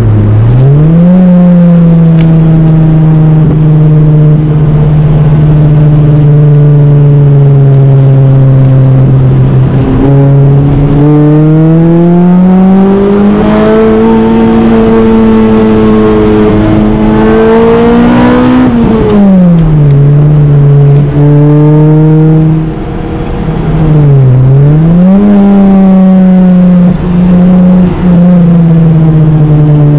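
Toyota Celica GT-S's 1.8-litre four-cylinder engine, heard from inside the cabin, running loud at high revs. The pitch holds steady for long stretches and climbs to its highest about halfway through before dropping back. It dips sharply and climbs again near the start and once more near the end, as the throttle is lifted and reapplied.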